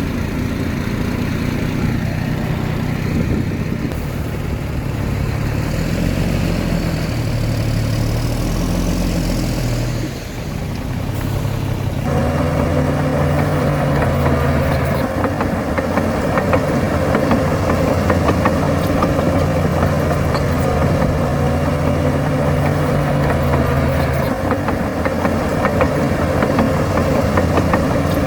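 Heavy diesel earthmoving machinery running steadily. Its engine sound dips briefly about ten seconds in, then comes back louder and stronger from about twelve seconds in.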